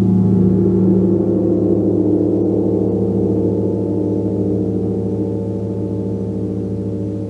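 A gong ringing with a dense hum of many overlapping low tones, swelling to its loudest in the first second and then slowly dying away.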